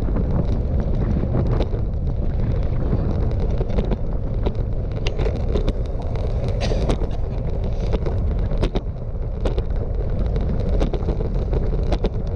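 Strong wind buffeting the microphone while riding a bicycle: a steady low rumble with scattered sharp clicks and knocks.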